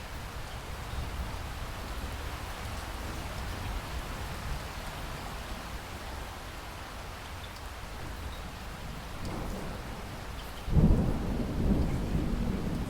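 Steady rain falling, with thunder breaking in suddenly near the end as a loud, deep rumble that keeps rolling.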